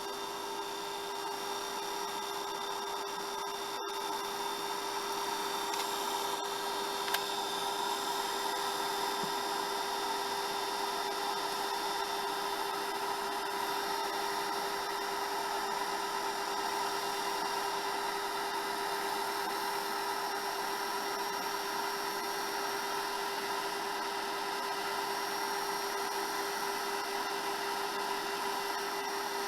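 Hair dryer running steadily: a constant motor whine over a rush of blown air, growing a little louder over the first several seconds, then holding level.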